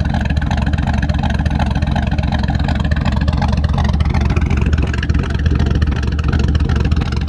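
V8 truck engine with a BTR Norris truck cam idling in drive at about 660 rpm against a stock torque converter, with an uneven cam lope. It breathes through stock exhaust manifolds and catalytic converters with the muffler deleted, pulling about 71 kPa of manifold pressure in gear.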